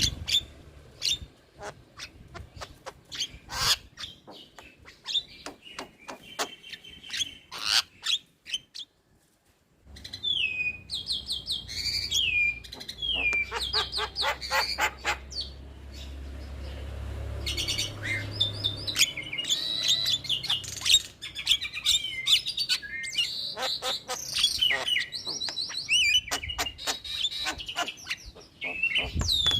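Javan myna (jalak kebo) chattering: rapid clicks and rattles, then after a brief pause, sliding whistles and squeaky, scratchy calls.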